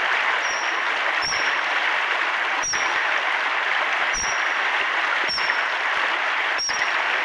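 Young Eurasian otter cub giving shrill, high whistled contact calls, short notes about once a second, the call of a cub separated from its mother, over steadily running river water.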